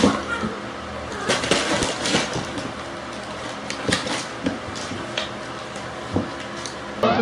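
Irregular clattering and knocking of small hard objects over a steady low hum.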